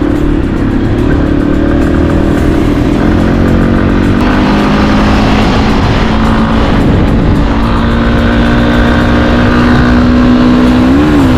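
Yamaha XT250's single-cylinder four-stroke engine running at a steady cruising speed, with wind buffeting the microphone. The engine note eases slightly about four seconds in and briefly rises and falls near the end.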